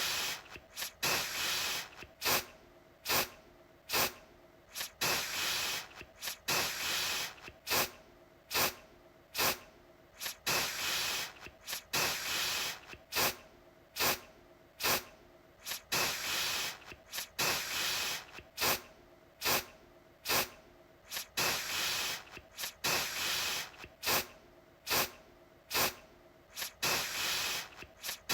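Aerosol deodorant can spraying in repeated bursts, a mix of short sharp puffs and longer sprays of about a second, with brief pauses between them.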